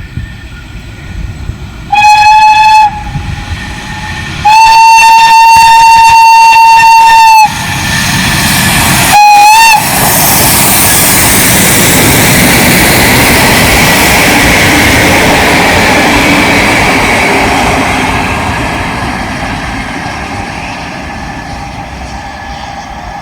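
Pt47 steam locomotive sounding its steam whistle three times, short, long, short, then running past with its passenger train in a loud rumble that fades away near the end.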